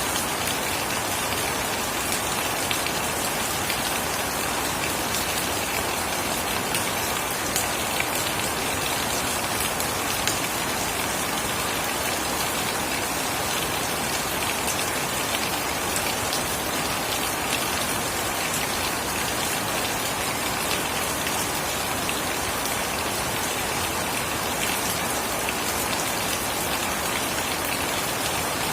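Steady rain falling, with scattered drops ticking on surfaces throughout.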